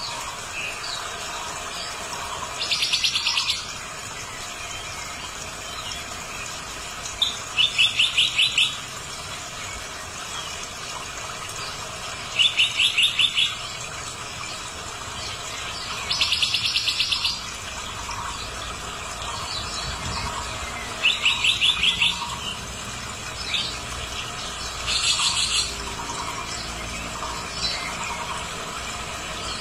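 A bird calling in short, rapid stuttering trills of about a second each, repeated six times at roughly four-second intervals over a steady background hiss.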